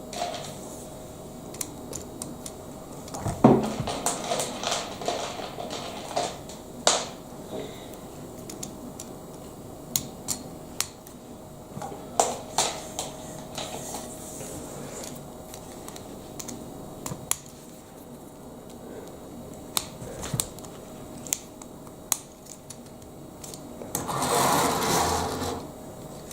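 Lego Technic plastic parts clicking and snapping as they are handled and fitted together, in scattered sharp clicks. A longer rustle of parts being handled near the end.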